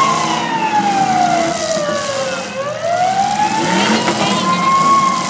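A wailing siren, sweeping slowly down in pitch, back up, then down again at about two and a half seconds a sweep: the signal to halt the demolition derby because a car has caught fire. Car engines run underneath.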